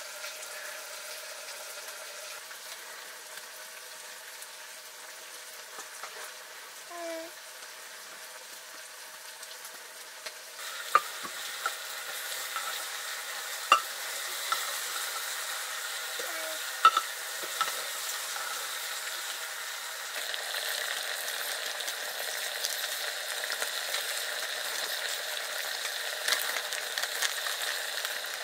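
Food sizzling in a hot pan while it is stirred, with a utensil knocking against the pan several times. The sizzle grows louder about ten seconds in and again toward the end.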